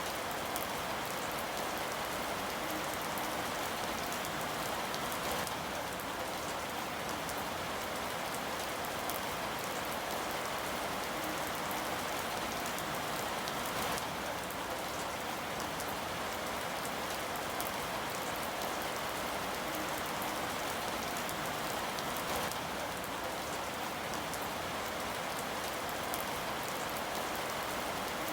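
Steady rain falling and pattering on a surface, with fine individual drop hits through a constant hiss.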